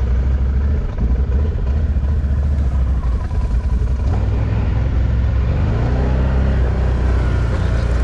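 An off-road vehicle's engine running with a steady low rumble, its pitch rising briefly about five to six seconds in.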